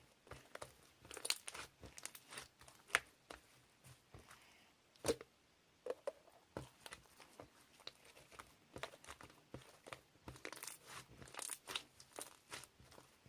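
Faint close handling noises: irregular clicks, taps and crinkles, with a few sharper ticks among them, as of paper or plastic being handled and torn.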